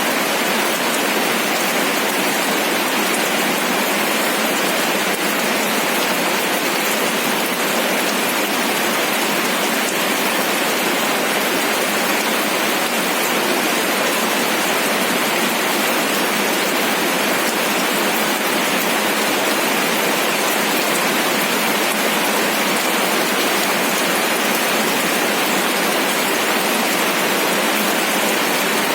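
Steady rain falling, an even hiss of drops pattering on a surface, unchanging throughout.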